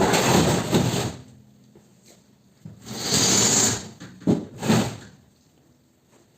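Two long scraping or sliding noises, then two short knocks just before the end of the clatter.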